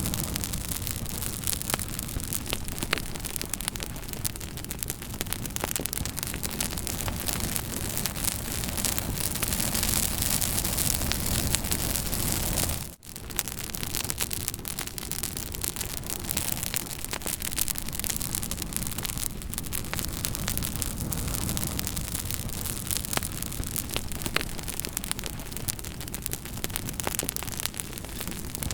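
Campfire burning, a steady hiss and rush of flames with frequent sharp crackles and pops of burning wood. The sound briefly drops out about halfway through, then carries on.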